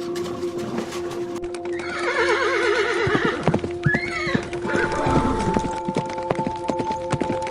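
A horse whinnies, a quavering neigh falling in pitch about two seconds in, followed by a run of hoof clip-clops, over a steady background music drone.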